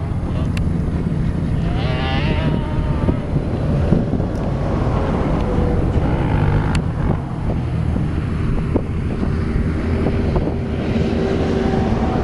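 Wind buffeting the microphone over a steady engine rumble. About two seconds in, a higher engine note wavers up and down briefly.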